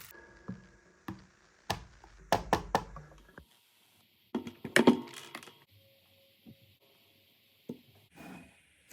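Slime being pressed and worked by hand, giving sharp clicks and pops: a cluster of crackling pops in the first few seconds, a louder burst of pops about five seconds in, then a few scattered small clicks.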